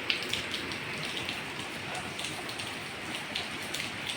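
Steady rain falling, with many small, irregular drop ticks as it hits a surface close by.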